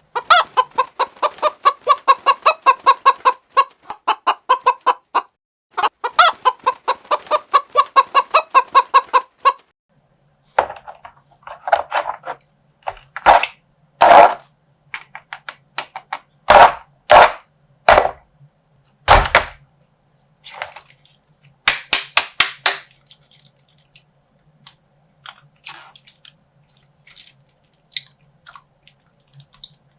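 Chicken clucking, a fast run of clucks lasting about nine seconds. Then scattered crackles, snaps and squishes as a slime-filled plastic bag is handled and popped.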